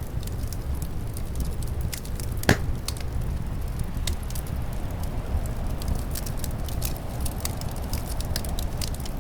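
Wood fire crackling in a fireplace, with a scatter of small pops and one louder snap about two and a half seconds in, over a steady low rumble of winter wind.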